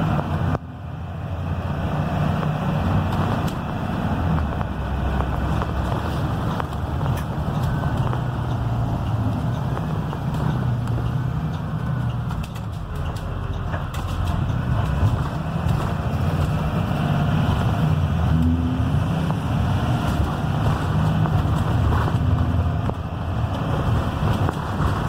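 Cummins B6.7 diesel engine of a Blue Bird Vision school bus running steadily while the bus drives, with road noise; the engine note rises and falls gently with speed. There is a short dip in loudness about half a second in.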